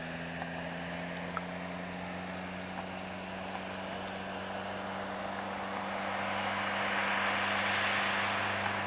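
Dodge SRT-4's turbocharged 2.4-litre four-cylinder idling steadily through a catted 3-inch Modern Performance exhaust, with a cricket chirping steadily in the background. A rushing noise builds over the last few seconds.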